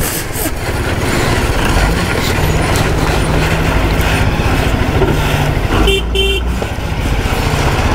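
Motorcycle running along a rough mountain road, with steady engine and road noise. Just before six seconds in, a vehicle horn gives two short toots.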